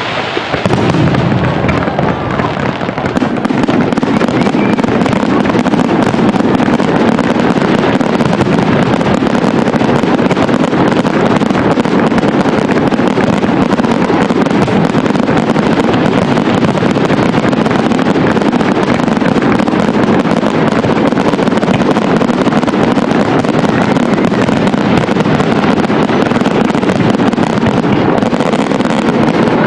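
Aerial fireworks display: a continuous, dense barrage of shell bursts and crackling with no pauses, loud throughout.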